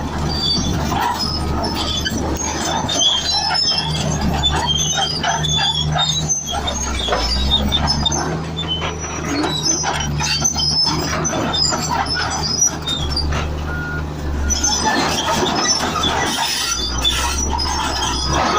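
Komatsu bulldozer's diesel engine running steadily, with metallic squealing and clanking from its steel crawler tracks.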